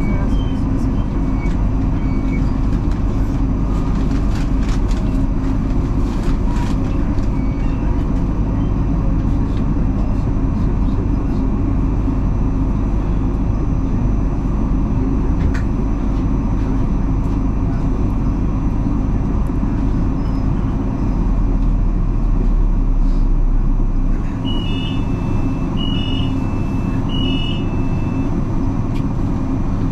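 Suburban electric passenger train heard from inside the carriage, running with a steady rumble of wheels on the track and a few faint clicks. Near the end, as the train comes into Wandsworth Town station, the deepest hum cuts out. Three short two-note electronic beeps follow, about a second and a half apart.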